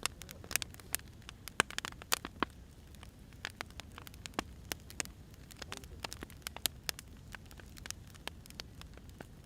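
Wood fire crackling: irregular sharp pops and snaps over a steady low rumble, with a few louder pops in the first couple of seconds.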